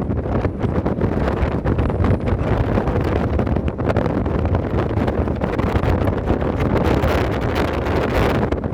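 Wind buffeting the microphone: a steady loud rumble and rush, with gusts swelling towards the end.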